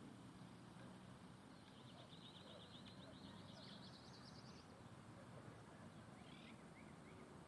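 A small songbird's fast, high trill lasting about three seconds, rising in pitch toward its end, followed a little later by a few short call notes, faint over a steady background hiss.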